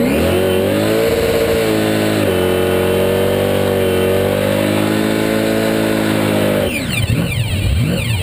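Supercharged drag-racing V8 revved up sharply and held at high rpm for about six seconds, then dropping off with a few quick blips of the throttle near the end.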